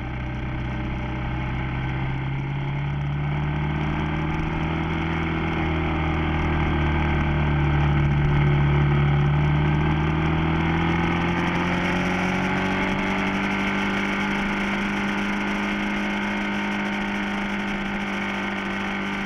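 Motorcycle engine running steadily under way, picked up by a camera on the bike over road and wind noise. Its pitch rises gently, dips a little, then climbs again near the end.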